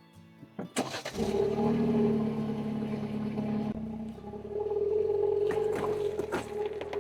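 A car engine running with a steady drone that sets in about a second in, its tone shifting slightly partway through.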